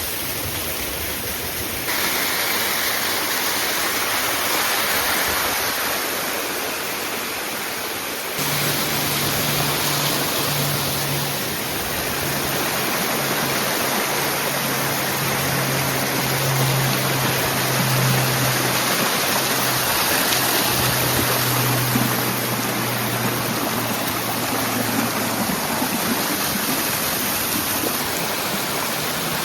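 Rushing water of a mountain waterfall and stream, a steady loud noise whose level and colour change abruptly twice in the first nine seconds. A low steady hum runs through the middle of it.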